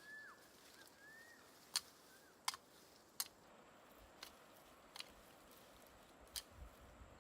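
Quiet outdoor ambience: a bird gives a few short, arched chirps in the first couple of seconds, and irregular sharp clicks sound throughout.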